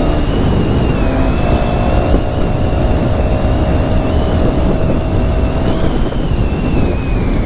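Motorcycle riding at speed: wind buffeting the microphone over engine and road noise, with a steady high whine throughout and a lower steady tone joining for about four seconds in the middle.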